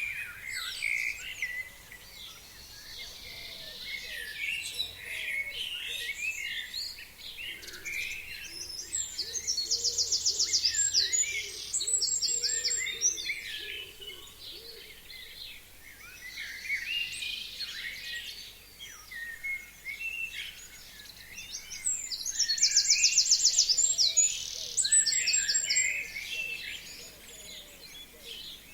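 A chorus of forest songbirds singing, many short chirps and whistles overlapping. Twice, about nine seconds in and again about twenty-two seconds in, a louder song of a fast trill with a closing flourish stands out.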